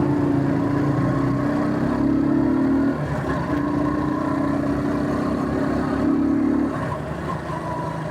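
Motor vehicle engine running at a steady speed, its drone breaking and dropping slightly in level twice.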